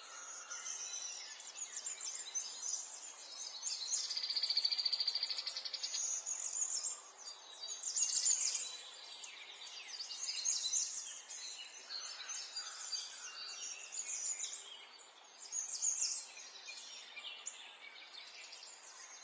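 Several songbirds chirping and singing in overlapping phrases, with a rapid high trill about four seconds in.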